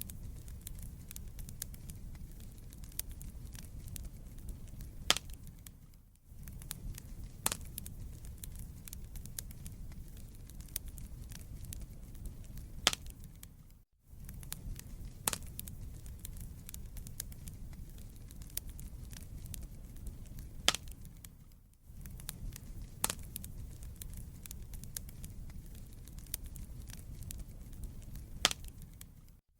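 Wood fire burning in a fireplace: a low steady rumble of flames with constant small crackles and a few sharp pops. The sound dips out briefly about every eight seconds.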